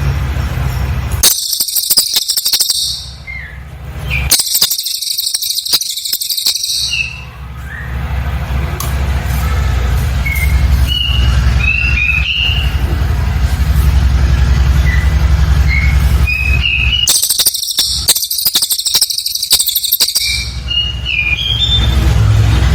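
Cililin bird song: three bursts of very rapid, high-pitched trilling, each two to three seconds long, with scattered short chirps in the pauses between. A steady low hum runs underneath.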